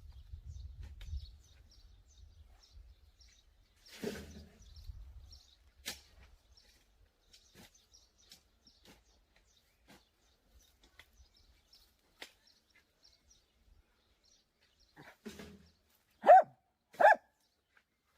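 A dog barks twice near the end, the two barks under a second apart, over faint scattered bird chirps and a few light knocks.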